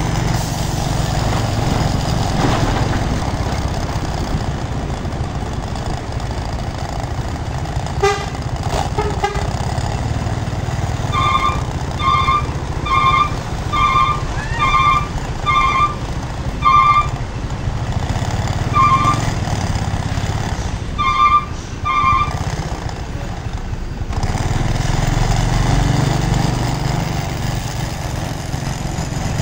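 A truck engine running steadily. About a third of the way in, a series of short, evenly spaced high beeps or toots starts, roughly one a second, pauses briefly, then resumes for a few more before stopping.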